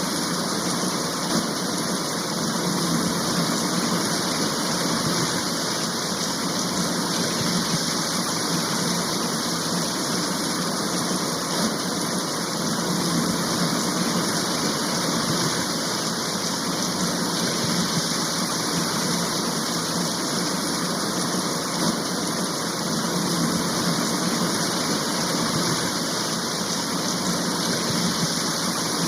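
Steady heavy rain shower, an unbroken even hiss of rain with no pauses or thunder.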